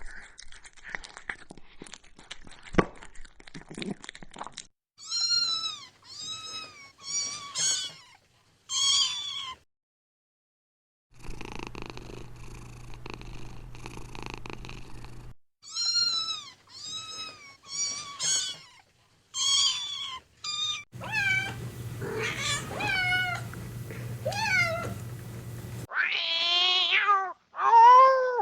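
Kittens mewing in short, high, falling cries, several in quick succession, in separate bursts. Between them are stretches of steady cat purring, and there are louder, lower meows near the end. Scratchy clicks come first.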